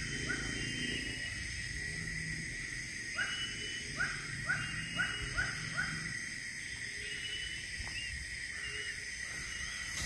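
A bird calling a quick run of six short, rising notes, about two a second, over a steady high-pitched drone.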